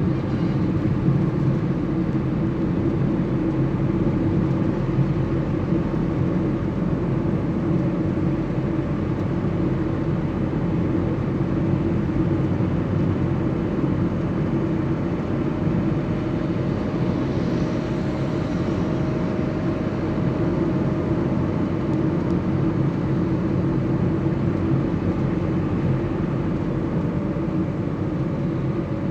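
Steady low drone of a running vehicle, even throughout, with a faint high tone coming in about halfway through.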